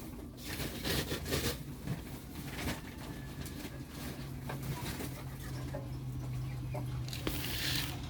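Domestic pigeons cooing, with scattered taps and rustling among the birds.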